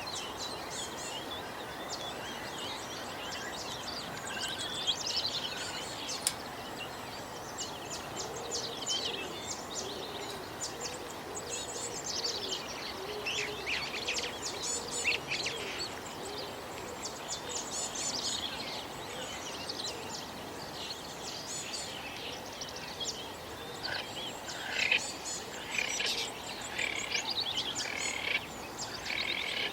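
Many birds chirping and calling at once, a dense chorus of quick high chirps over a steady background hiss.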